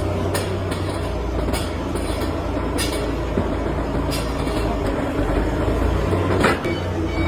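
Heavy workshop machinery running with a steady low hum, with a sharp metallic knock about every second and a bit.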